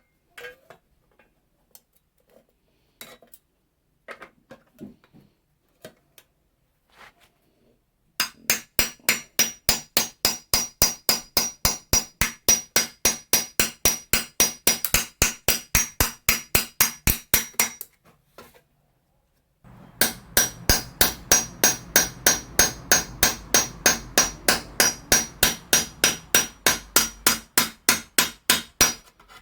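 Steel scythe blade being peened with a hammer: two long runs of quick, even metallic strikes, about four a second, with a short pause between them. A few scattered light taps come first.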